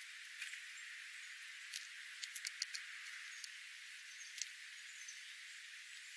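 Steady outdoor hiss with scattered sharp clicks and light rustles, including a quick run of four or five clicks a little after two seconds in.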